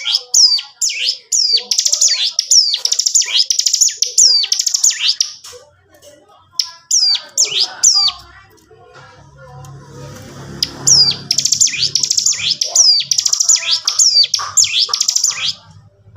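Ciblek gunung (a prinia) singing loudly and continuously in fast chattering bursts of high, downward-sweeping notes, with two short pauses.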